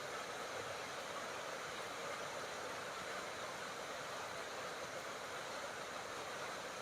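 Steady, even rainfall, a dense hiss with no individual drops or thunder standing out.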